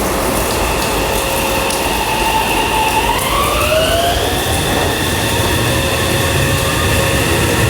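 Meitetsu 2000 series μSKY electric train running, its inverter and traction motors whining in several steady tones over the rumble of the train. About three seconds in, the whine rises in pitch and then holds steady at the higher note, as the drive does when the train picks up speed.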